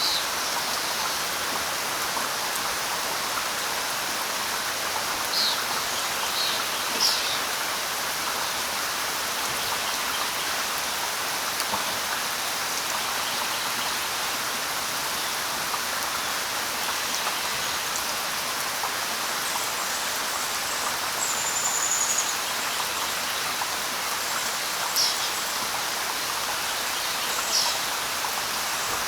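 Steady light rain pattering on leaves, with a few short, high bird chirps now and then and one brief thin whistle.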